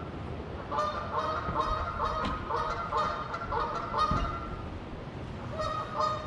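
Geese honking: a quick run of repeated calls for about four seconds, a short pause, then more honks near the end.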